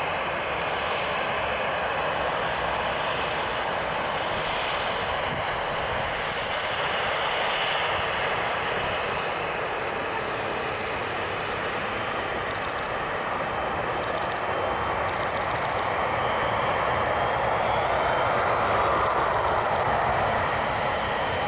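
Jet noise from a Boeing 737-700 BBJ's turbofan engines at takeoff power during a rolling takeoff. The steady noise swells somewhat louder for a few seconds near the end.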